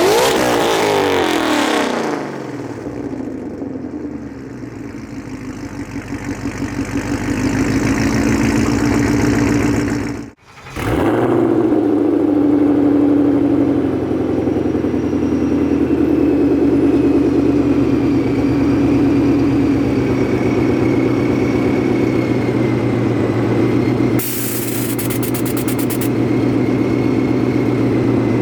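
Supercharged 2014 Mustang GT 5.0 V8 through Corsa long-tube headers, X-pipe, over-axle pipes and Corsa Xtreme quad tips. It is blipped at the start and the revs fall back, then it runs at low rpm. The sound cuts out briefly about ten seconds in, then the engine runs steadily with a faint high whine.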